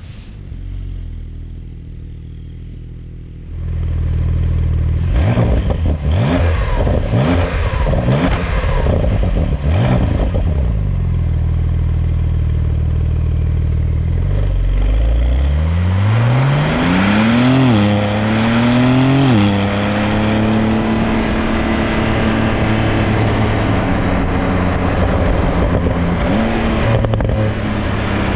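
2021 Porsche 911 Turbo S's 3.8-litre twin-turbo flat-six engine, running steadily and quietly at first. After about three seconds it grows much louder with a few quick revs. About halfway through the car accelerates hard, the engine note climbing and dropping twice at quick gear changes, then settles into a steady high drone.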